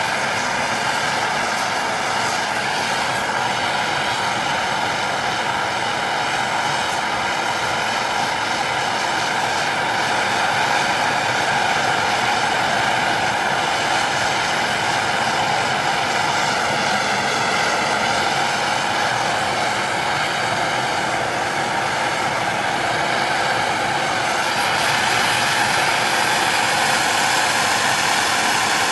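A machine running steadily, with a constant whine of several steady tones over a hiss.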